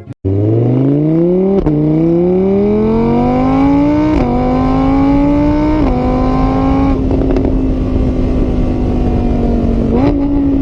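Vehicle engine accelerating through the gears: its pitch climbs, drops at each of three gear changes, then holds steady at speed.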